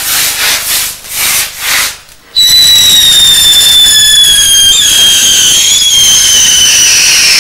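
An indoor firework hissing in several short spurts, then from about two and a half seconds in a loud whistle that falls slowly in pitch for about five seconds, as a whistling firework burns.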